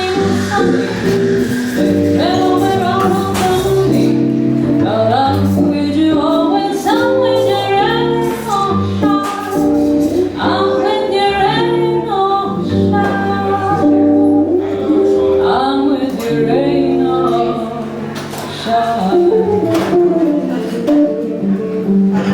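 Vocal jazz trio performing live: a female singer holding long, wavering notes over jazz guitar chords and a walking double bass.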